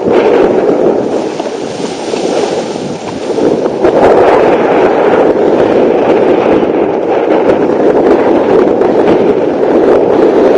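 Wind buffeting the microphone and water rushing under a planing windsurf board in gusty wind, a loud steady rumble, with a brighter hiss for a few seconds near the start.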